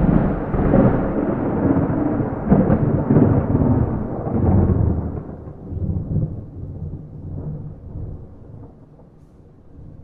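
A peal of thunder with no rain: a loud rolling rumble for about the first five seconds, then dying away slowly.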